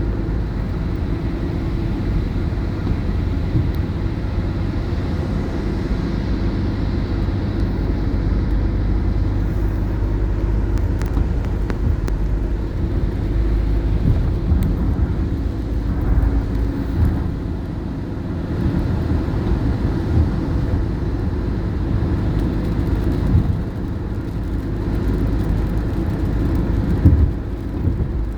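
Steady low rumble of a car driving, engine and road noise without a break.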